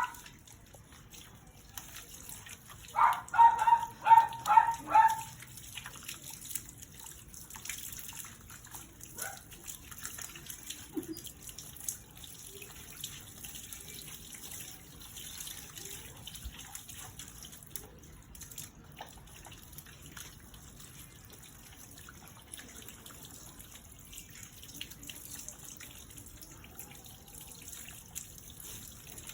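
Water running and dripping while a dog is bathed, with small splashes throughout. About three seconds in, a quick series of five or six high-pitched cries.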